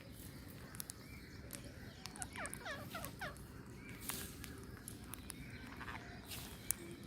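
Birds calling outdoors: a quick run of about eight falling chirps two to three seconds in, with scattered sharp clicks and a couple of short rustling noises around it.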